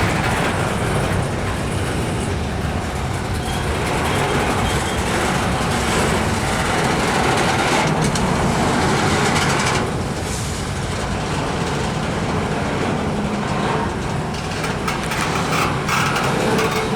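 Norfolk Southern freight train's cars rolling past, a steady loud rumble of wheels on the rails with scattered clanks.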